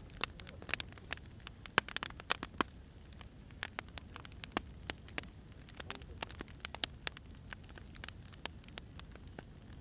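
Burning firewood crackling: irregular sharp snaps and pops over a low, steady rumble of the fire, busiest in the first few seconds.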